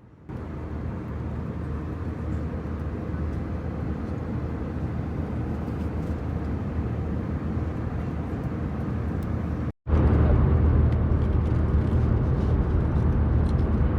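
Steady cabin noise of an Airbus A320 in flight: a constant drone of engines and airflow with a low hum. It cuts out for an instant about ten seconds in and comes back louder.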